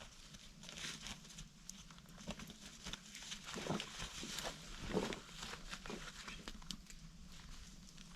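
Irregular crunching and rustling on the forest floor, like someone stepping and moving about, with a few louder crunches around the middle.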